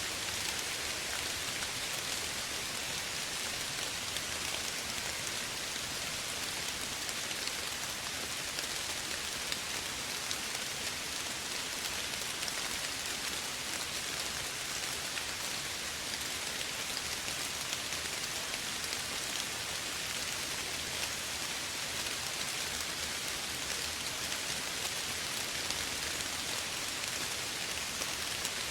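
Steady soft rain falling, an even hiss of many small drops with fine scattered patter.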